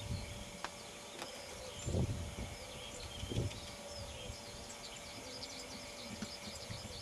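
Small birds chirping all through, with a few dull low thuds about two and three and a half seconds in.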